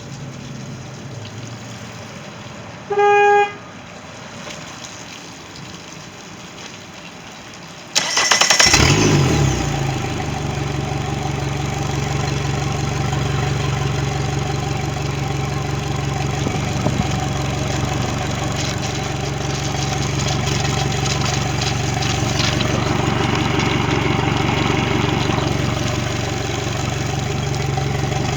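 90 hp Mercury outboard being started. A short warning-horn beep about three seconds in marks the key being switched on. About eight seconds in the starter cranks for a moment, and the engine catches, rises briefly and settles into a steady idle, starting readily now that its no-start problem has been dealt with.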